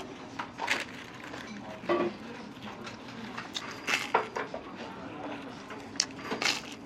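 Eating utensils clinking and scraping against a dish in a handful of short, separate knocks over a low background murmur.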